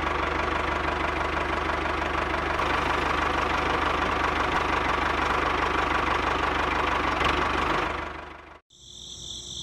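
Diesel tractor engine running steadily with a knocking chug, cutting off about eight seconds in; a faint high shimmer follows near the end.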